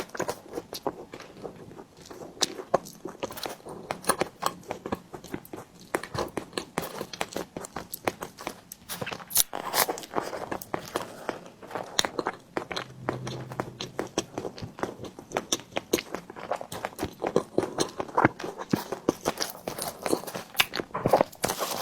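Close-miked mukbang eating sounds: biting and chewing a tiger skin dessert, with a dense run of small wet mouth clicks and smacks.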